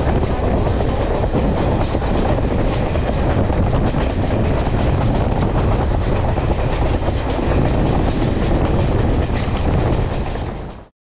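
Passenger train rolling along the track, heard from on board: a steady rumble and rattle of wheels on rails that fades out quickly near the end.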